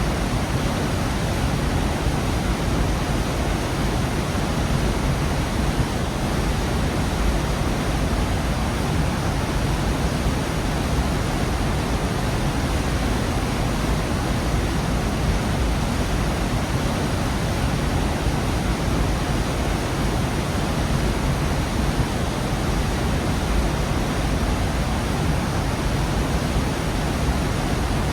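Gorge waterfall: water falling and rushing in a steady, loud roar of even noise, heaviest in the low end, unchanging throughout.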